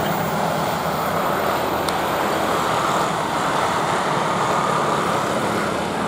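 Passenger train running away along the track: a steady rumble of wheels on rails and engine noise, easing slightly near the end.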